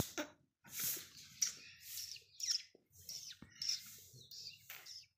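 Small birds chirping: a string of short, high calls, many sliding quickly down in pitch, a few each second.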